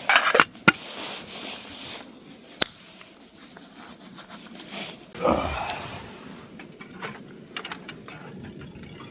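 Close handling noise: rustling with several sharp clicks and knocks, the loudest in the first second, another single click a few seconds in, and a longer rustle about five seconds in.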